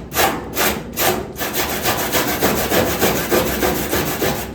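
Back-and-forth strokes of a hand saw cutting into rusted car-body sheet metal: a few slow strokes, then quicker, even strokes that stop suddenly near the end.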